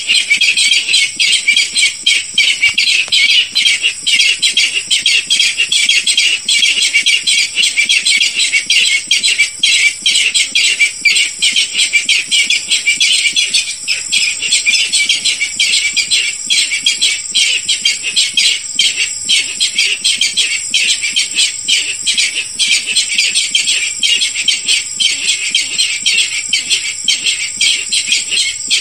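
Barred rail (Hypotaenidia torquata) lure call: a loud, continuous run of fast, high notes repeated without a break.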